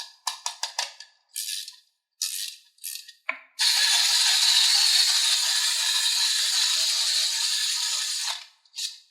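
A rattling, shaker-like sound: a quick run of short rattles, then one steady rattle lasting about five seconds, and a last short one near the end.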